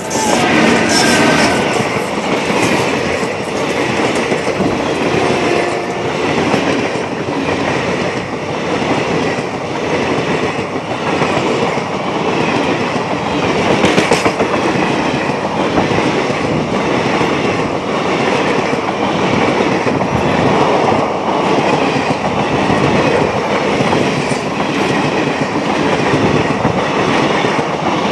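Passenger train led by a WAM-4 electric locomotive passing close by at speed: a loud continuous rumble with a steady clickety-clack of wheels over the rail joints as the coaches go by.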